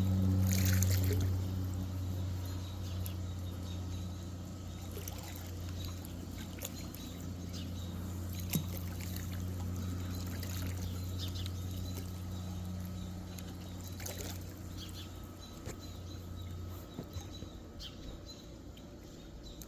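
Small propeller airplane flying low overhead: a steady engine drone, loud at first, that fades away as the plane moves off and dies out near the end.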